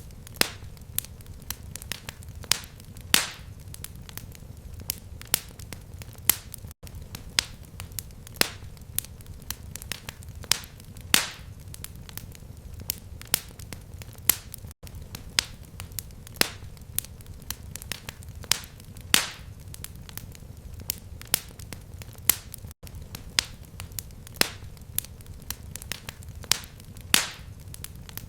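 Fireplace fire crackling: sharp, irregular pops, a louder one every couple of seconds, over a steady low rumble. The sound cuts out briefly about every eight seconds.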